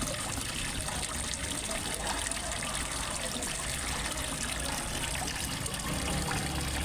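Water trickling and splashing steadily into a fish pond, a waterfall or outflow running without a break.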